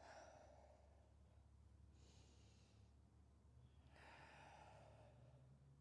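Faint human breathing: three slow breaths about two seconds apart, over a faint steady low hum.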